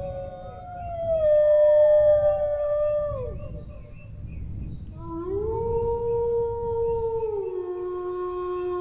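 Dogs howling: one long, slightly falling howl that trails off about three seconds in, then after a short pause a new howl that rises, holds, and drops to a lower held note, with fainter howls overlapping.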